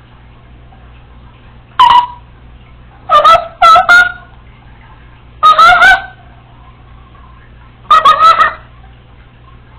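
Congo African grey parrot giving five loud calls, each under a second long, with two in quick succession just past a third of the way through.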